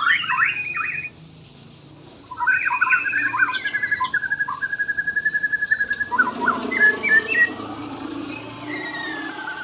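White-rumped shama (murai batu) singing: varied phrases of clear whistles, quick repeated notes and trills, broken by a pause of about a second near the start, with a falling whistle near the end.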